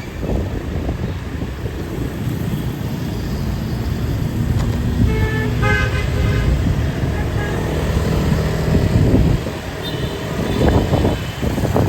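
Motorbike engines running and passing close on a busy street, with a vehicle horn honking once for about a second near the middle and a shorter high tone later.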